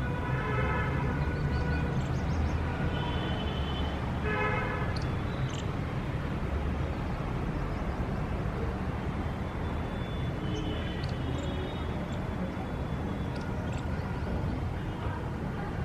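City street traffic: a steady rumble of vehicles, with car horns honking several times, near the start, around three to five seconds in, and again about ten seconds in. A few short high chirps sound over it.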